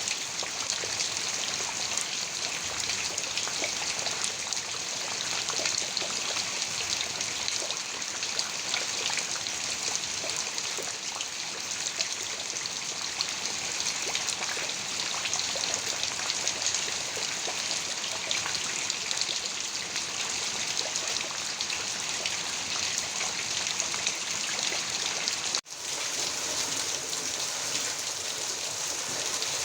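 Heavy rain falling steadily, a dense even patter. About four seconds before the end the sound drops out for a split second, a cut in the recording, then carries on with less low rumble.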